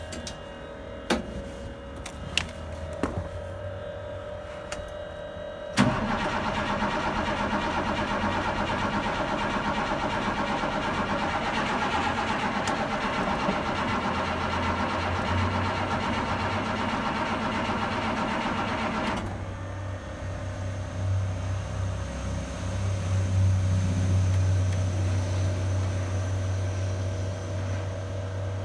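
Diesel engine of a 2000 International 4700 dump truck starting from cold: a few light clicks, then about six seconds in the engine bursts into loud, dense noise. About nineteen seconds in the sound drops to a deep, heavy rumble that swells and eases as the cold engine runs.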